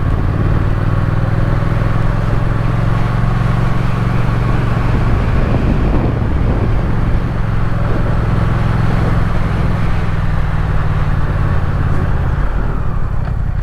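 Triumph Speed Twin's parallel-twin engine running steadily on the move, heard from the rider's camera with wind and road noise over it. The engine note changes near the end.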